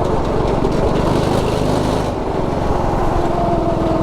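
Predator 212 Ghost single-cylinder four-stroke engine running hard on a go-kart, its note easing briefly a little past halfway and then pulling back up.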